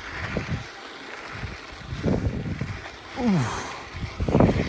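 Wind buffeting the microphone in irregular gusts, with the loudest gust near the end.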